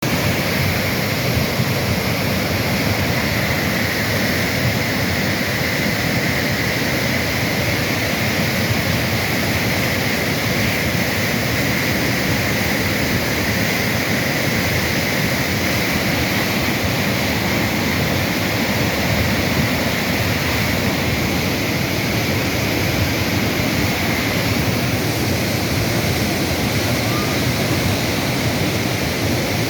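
Flash-flood water rushing steadily through fields and a channel: a loud, unbroken roar of fast-moving floodwater.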